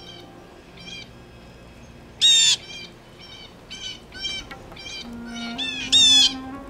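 A bird giving a series of short calls at irregular intervals, two of them much louder and closer, about two seconds in and near the end.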